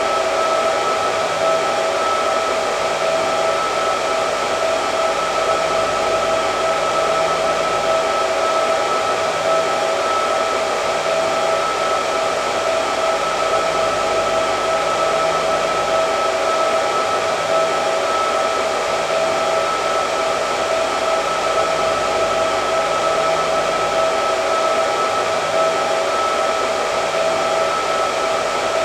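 Hair dryer running steadily: a constant rush of air with a steady pitched hum riding on it.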